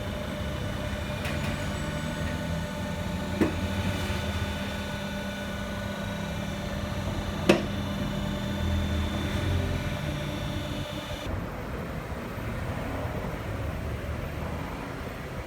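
Nissan Teana's engine running steadily, with a steady whine over its hum. Two sharp clicks come a few seconds apart.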